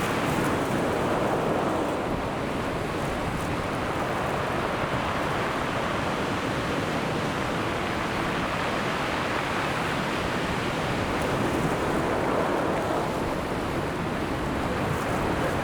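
Sea surf breaking and washing on the shore: a continuous rushing wash that swells a little near the start and again about two-thirds of the way through.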